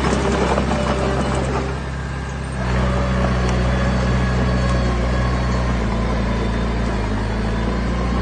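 Heavy diesel engine of earthmoving machinery running steadily with a rattling clatter. It eases off briefly, then comes back louder a little under three seconds in and holds there.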